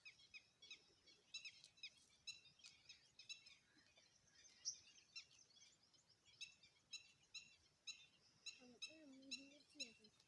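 Faint chirping of small birds: short, high calls repeating several times a second. Near the end comes a lower call lasting about a second.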